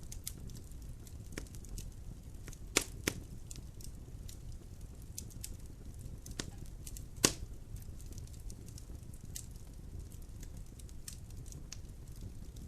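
Burning logs crackling in a fireplace: a steady run of small sharp snaps over a low rumble of the fire, with three louder pops, two close together about three seconds in and one about seven seconds in.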